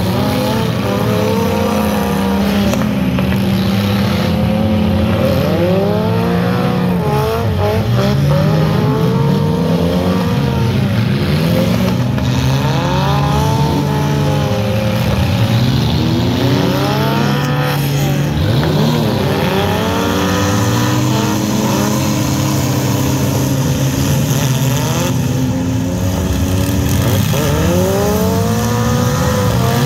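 Engines of several demolition derby mini trucks and SUVs revving hard, their pitch rising and falling again and again as they overlap.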